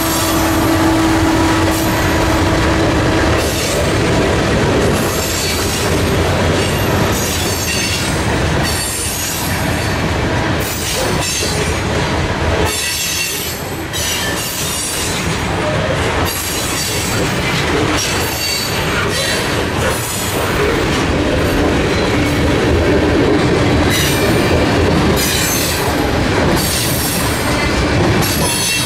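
Freight train rolling past close by. A mid-train diesel locomotive's engine passes in the first few seconds with a steady tone, then the loaded covered hoppers and tank cars follow, their steel wheels rumbling and clacking over the rail joints with some wheel squeal.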